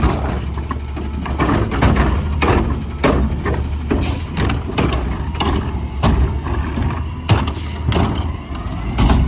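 Garbage truck's diesel engine running steadily, with a string of sharp metallic clanks and knocks over it.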